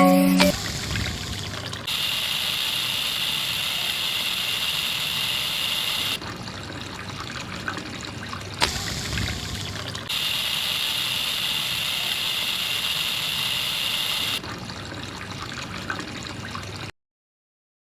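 Water trickling and pouring in a steady stream, as from the outlet of a miniature DIY water pump. It comes in a few stretches that start and stop abruptly, and cuts to silence near the end.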